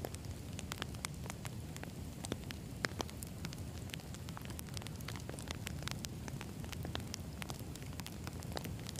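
Wood campfire burning, with a steady low rumble of flames and frequent sharp, irregular crackles and pops from the burning logs.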